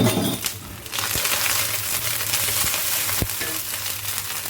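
Onion and ginger-garlic paste frying in ghee in a wok, with tomato paste just added: a knock at the start, then a steady sizzle from about a second in, with a few clicks of the spatula against the wok.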